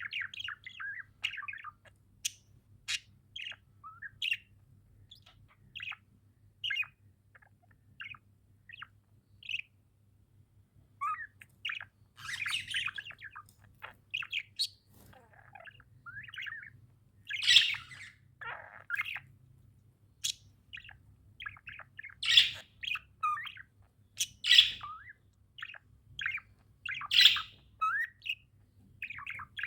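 Budgerigars chirping and squawking: a constant stream of short chirps, with louder, harsher calls every few seconds in the second half.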